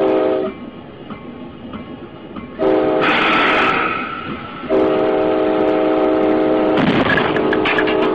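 Locomotive air horn blowing a multi-note chord: a short blast, a second blast about two and a half seconds in, then a long held blast from about halfway through, over the noise of the moving train. A cluster of sharp knocks comes near the end.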